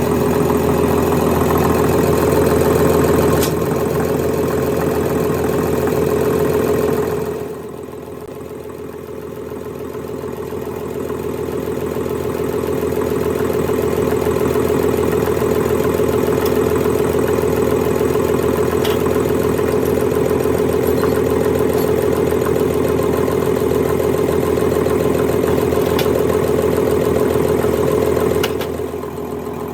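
Engine-like machinery running steadily with a strong low hum. The sound drops in level about seven seconds in, builds back up over the next few seconds, and drops again near the end.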